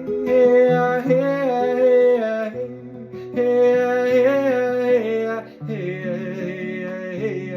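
Mantra singing: a voice holds long, drawn-out notes in three phrases over guitar chords.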